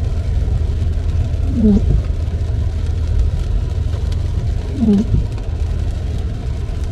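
Car windshield wipers sweeping a wet windshield, each sweep giving a short falling groan, twice about three seconds apart: the blades are stiff and drag on the glass. Under them runs the steady low rumble of the car driving on a wet road.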